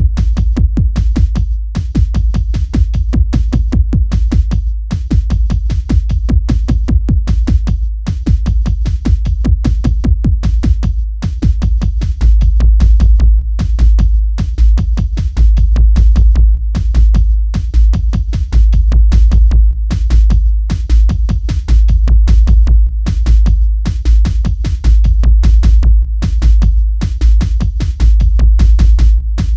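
Electronic beat: a drum machine keeps a steady, fast pulse of hits over heavy deep bass. The bass comes in stronger about twelve seconds in.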